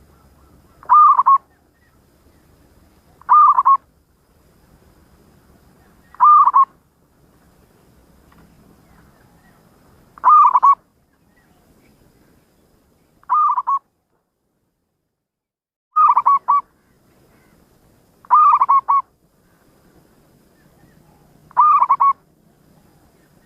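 Zebra dove (perkutut) cooing: a short phrase of a few quick notes, repeated eight times at intervals of two to four seconds.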